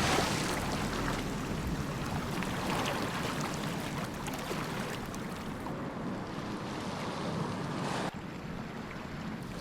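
Steady rush of a flowing river. About eight seconds in the sound changes abruptly and becomes slightly duller.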